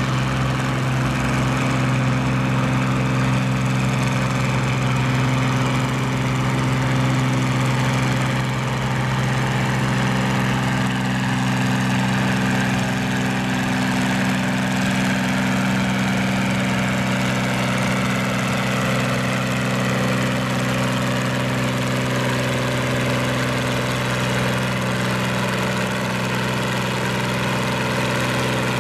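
Farm tractor engine running steadily at a fairly even speed.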